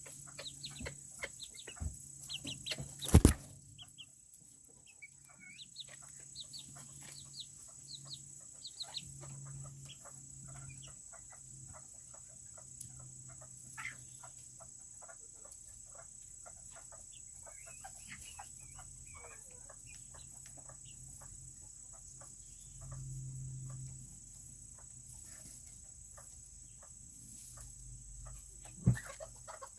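Serama bantam chickens clucking and peeping in short, high, falling chirps, over many small clicks and taps. A loud knock comes about three seconds in and another near the end.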